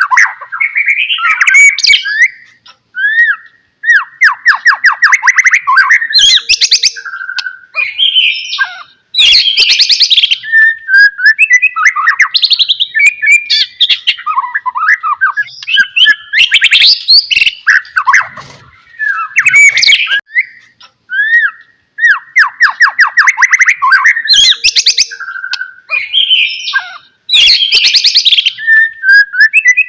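White-rumped shama (murai batu) singing in full, loud song. Varied phrases of clear whistles, fast trills and rapid rattling note runs follow each other with brief pauses between bursts.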